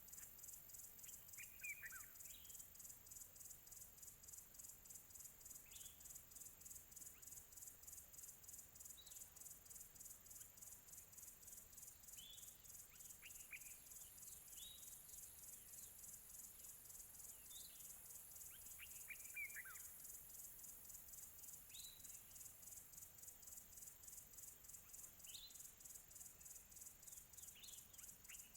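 Crickets chirping in a steady, fast-pulsing high trill, with faint bird calls every few seconds: short whistles that fall in pitch.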